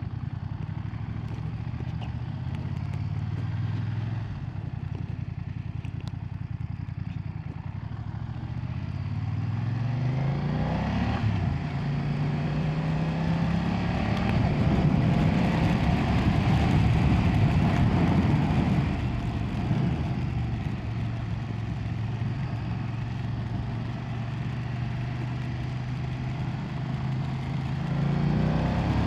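BMW F900R's 895 cc parallel-twin engine running under way. Its pitch rises as it accelerates a little before ten seconds in and again near the end, and it holds a steady note in between.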